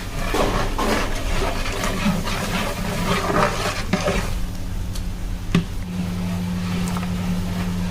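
Cooking noise from a large pot: irregular scraping and clatter for the first few seconds over a steady low hum, then a single sharp knock about five and a half seconds in.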